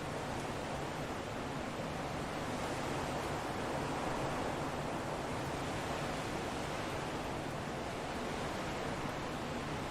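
Steady rushing wind, swelling gently a few seconds in and easing slightly toward the end.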